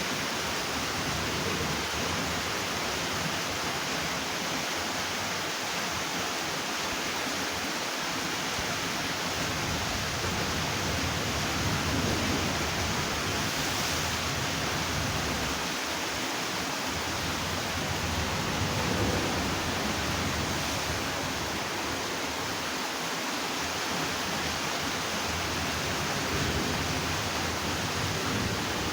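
Floodwater rushing under a bridge, a steady, unbroken rush of fast-flowing water.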